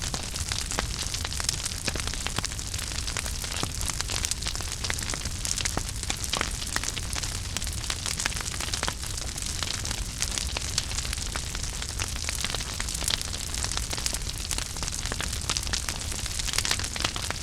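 Wood fire burning in a fireplace: a steady hiss with frequent small crackles and pops and a low rumble underneath.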